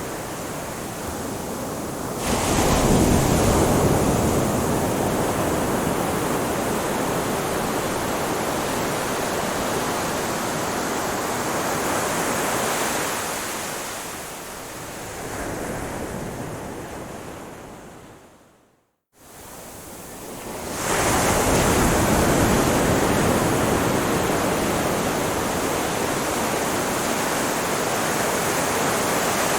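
Ocean waves breaking on a beach, a steady wash of surf that swells up with a wave about two seconds in and again about two-thirds through. Just before the second wave the sound fades and cuts out completely for a moment.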